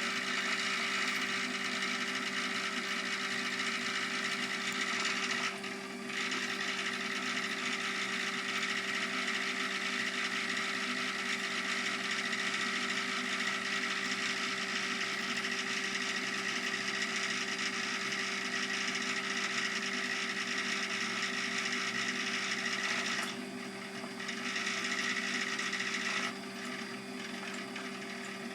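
Davey D75A1 submersible sump pump running steadily with a hum and a rattling vibration while pumping very slowly, which the owner puts down to air getting into the line. It dips briefly twice and is a little quieter over the last couple of seconds.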